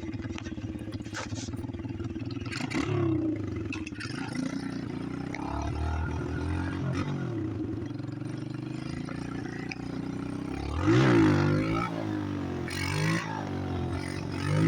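Motorcycle engine running, first steadily, then revving up and down several times. The loudest rev comes about eleven seconds in, and more come near the end.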